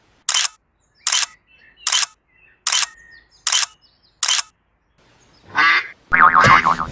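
Six short, crisp clicks evenly spaced about a second apart, like camera shutter clicks, then a duck's quack near the end.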